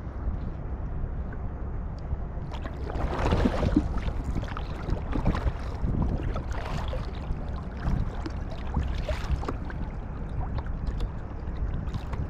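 Kayak paddle blades dipping and splashing in the water, one stroke every second and a half to two seconds, starting a few seconds in. Steady low wind rumble on the microphone underneath.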